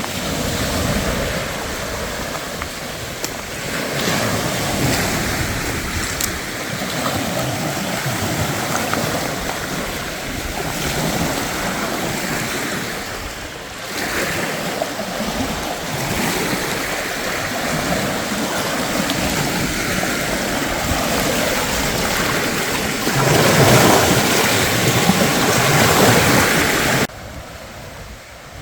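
Wind rushing in gusts, swelling and easing, loudest for a few seconds near the end and then dropping off suddenly.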